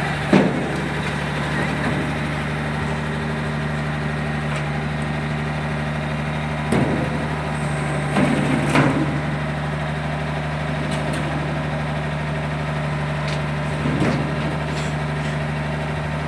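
A motor running steadily with an even low hum, with a few short knocks over it.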